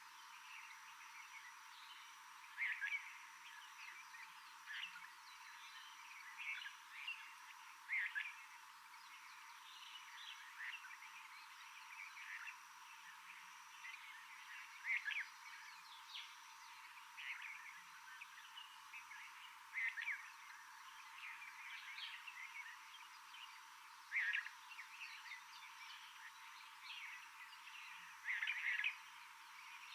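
Tropical forest ambience: short chirping calls come one at a time, every second or two, at irregular intervals over a faint steady hiss.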